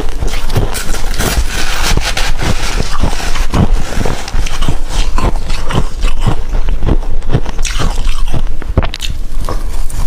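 Frost being bitten and chewed close to the microphone: dense crunching and crackling throughout.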